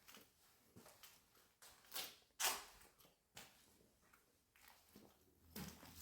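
Irregular footsteps scuffing and crunching on a debris-strewn floor, a few separate steps, the loudest about two and a half seconds in.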